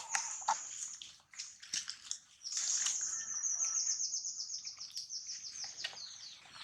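A bird trilling: a long run of rapid, high, evenly repeated notes lasting about three and a half seconds, slowly falling in pitch. It is preceded by a few short, sharp rustling knocks.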